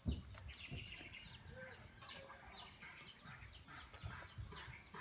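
Chickens and small birds calling: many short, quick, falling high-pitched chirps with some clucking, and a low bump right at the start.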